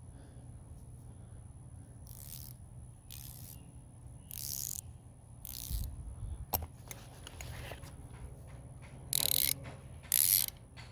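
A series of short scraping sounds from the ratcheting combination wrench set being handled, with a single sharp click midway and the last two scrapes the loudest, over a low steady hum.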